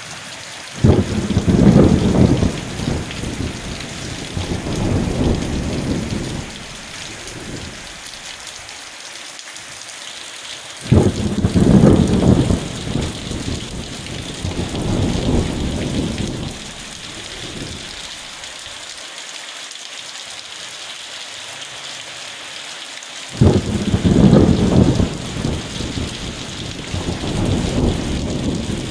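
Steady heavy rain falling, with three rolls of thunder, each starting suddenly and rumbling low for about five seconds before fading back into the rain.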